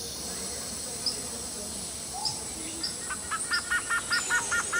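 Outdoor ambience of insects droning steadily on a high pitch, with short high chirps every half second or so. In the second half, a bird calls a rapid series of about eight repeated notes, some four or five a second.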